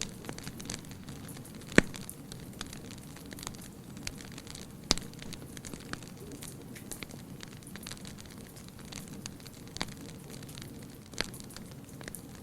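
Wood fire burning steadily with a low hiss and scattered crackles, with sharper pops about two seconds in, about five seconds in, and near the end.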